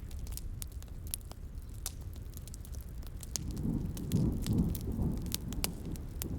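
Wood fire crackling with frequent sharp pops and snaps, over a steady low rumble. About three and a half seconds in, a roll of distant thunder swells and rumbles on.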